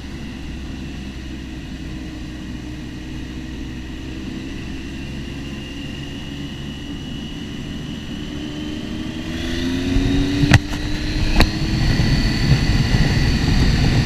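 Motorcycle engine running under way, its pitch rising steadily as it accelerates, heard with wind rumble on a helmet-mounted camera. About ten seconds in it grows louder and the wind rumble thickens. Two sharp clicks sound about a second apart.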